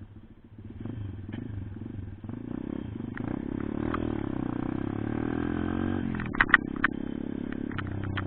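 Pitbike engine pulling away and accelerating, its pitch climbing steadily, then dropping suddenly about six seconds in as the revs fall, followed by a steadier run. A few sharp clicks come just after the drop.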